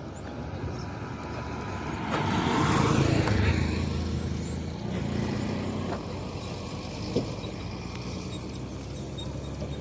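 A motor engine running steadily at a low pitch, with a louder rush of noise swelling about two seconds in and fading over the next couple of seconds.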